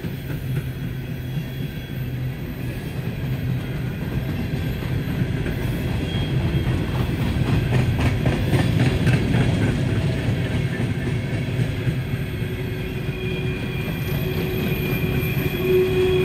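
Freight train rolling past on the rails: a steady low rumble of wheels with the clatter of cars over rail joints, loudest in the middle. Thin wheel squeal comes in near the end.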